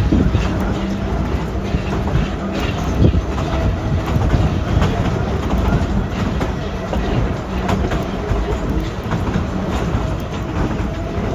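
Steam-hauled narrow-gauge passenger train rolling along the track, heard from aboard: a steady rumble of the cars, with scattered clicks and clacks from the wheels over the rails.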